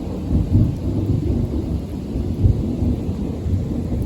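Distant thunder rumbling low and continuously, swelling and easing, from a storm moving away, with light rain.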